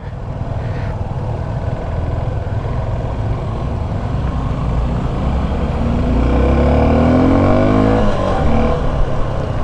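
Motorcycle engine running while riding, under heavy wind rumble on the microphone. From about five and a half seconds in, the engine note rises steadily for a couple of seconds as the bike accelerates, then drops back.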